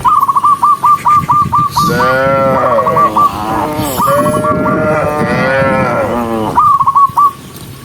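Cattle mooing: two long moos, one about two seconds in and one about four seconds in, over a high-pitched call that pulses rapidly several times a second.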